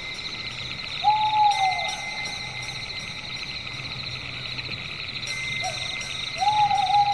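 A bird calling twice, each call one long note that falls in pitch, with a short note just before the second. A steady high buzzing of insects runs underneath.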